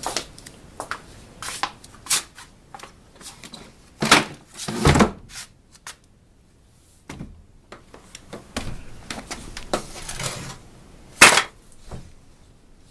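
Irregular knocks, clicks and clattering from things being handled and moved about, with two loud knocks about four seconds in and near the end and a brief scrape just after the first.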